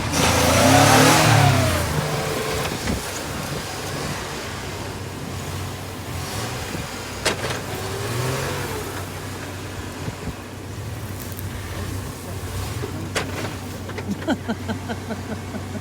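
Truck engine revving hard, rising and falling twice at the start, then running on with another short rev about eight seconds in. Single sharp cracks come twice, and a rapid run of snapping clicks near the end.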